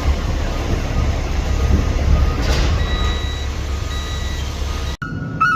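Garbage truck running with a loud, steady low rumble. Near the end, after an abrupt break, a reversing alarm starts beeping, about one beep every 0.8 seconds.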